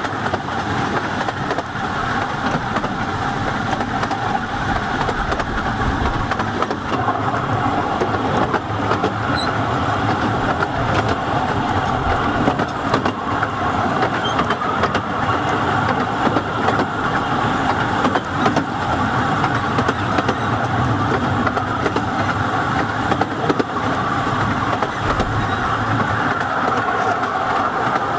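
Steady running noise of a 15-inch-gauge narrow-gauge train in motion, wheels rolling and rattling on the rails, heard from aboard a carriage.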